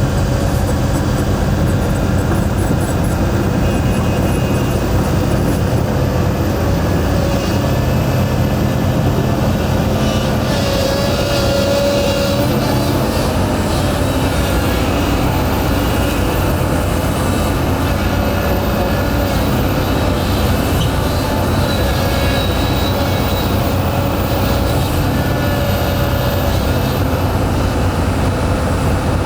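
Heavy diesel machinery running steadily under load, with high metallic whines and squeals coming and going over the engine noise.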